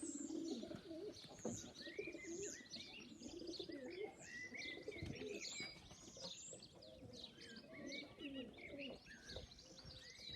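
Young racing pigeons cooing softly at the loft, with other birds chirping in quick, high, sliding notes over them throughout.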